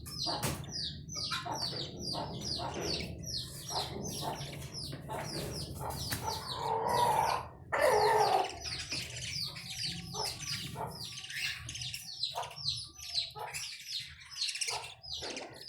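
Several budgerigars chattering: a dense run of quick, falling chirps. About seven seconds in, a louder, harsher burst lasts roughly two seconds.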